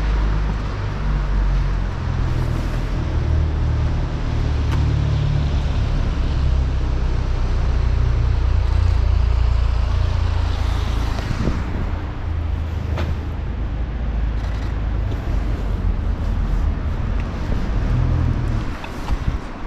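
City street traffic noise: vehicles running and passing, with a steady low rumble and a few faint ticks.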